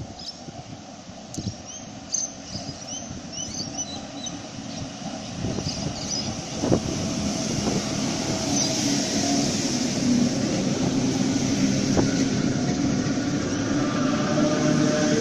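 Heritage single-deck electric train pulling into the platform, its rumble growing steadily louder as it comes near. There are a few sharp clicks as the wheels pass rail joints, and a steady low hum in the second half. Birds chirp in the first few seconds.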